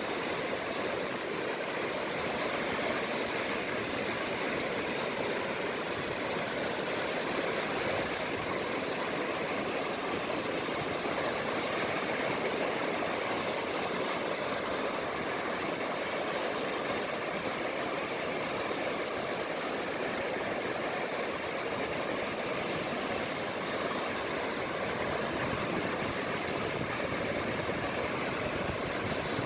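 Small sea waves washing steadily on the shore: an even, unbroken rush of water with no single breakers standing out.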